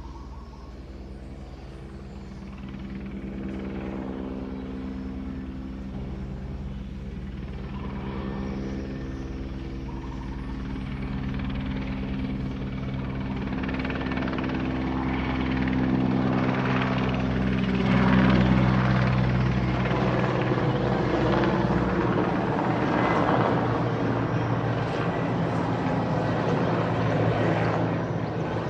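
Helicopter flying over, its rotor and engine drone growing steadily louder and peaking about two-thirds of the way through, then staying loud and turning rougher.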